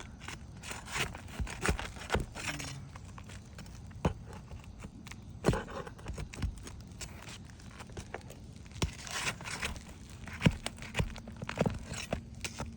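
Nails being pried out from under roof shingles: irregular sharp clicks and knocks with scraping and crinkling of the shingles in between.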